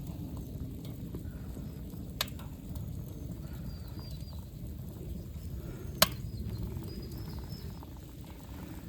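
Wood fire burning with a steady low rumble and two sharp pops, the second louder, while birds chirp faintly.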